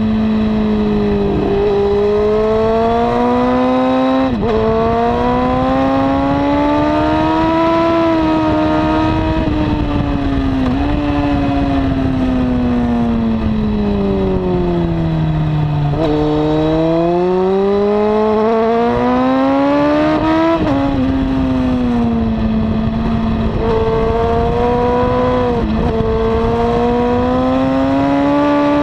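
2002 Honda CBR954RR inline-four with a slip-on exhaust, ridden hard on a track. The engine note climbs, breaks briefly at each gear change, falls steadily through the middle as the bike slows, then climbs again. A constant rush of wind runs under it.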